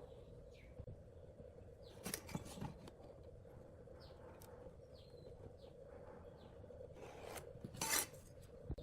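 Scraping or rubbing strokes of hand work on a workpiece, a short cluster about two seconds in and a louder one near the end, over a steady low hum, with faint short high chirps.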